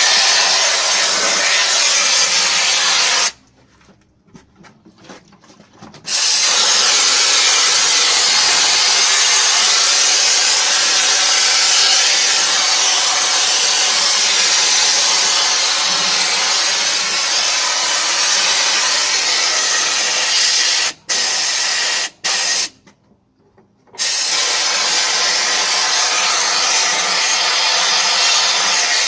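High-pressure washer jet spraying water, a loud steady hiss. About three seconds in it stops for nearly three seconds, and about two thirds of the way through it breaks off briefly a few times as the trigger is let go.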